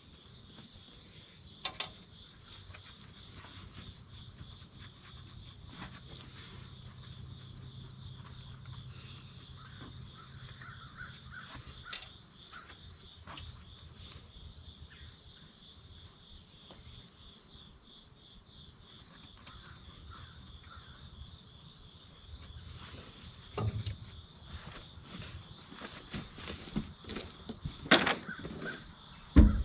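A steady, high-pitched chorus of insects, with a few sharp knocks near the end.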